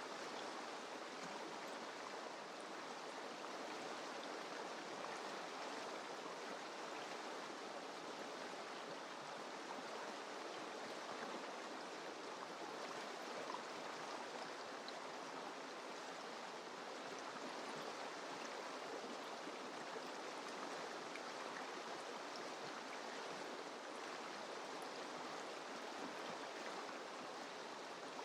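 Mountain river rushing steadily over rocks, an even, unbroken sound of flowing water.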